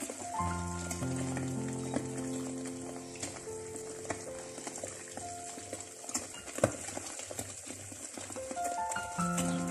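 Eggs sizzling as they fry in a pan, with a few sharp clicks of a metal spoon stirring them, the loudest about two-thirds of the way through. Background music with held notes plays over it.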